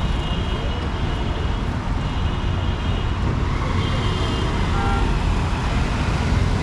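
Steady road traffic noise: a continuous rumble of engines and tyres from passing vehicles on a city road.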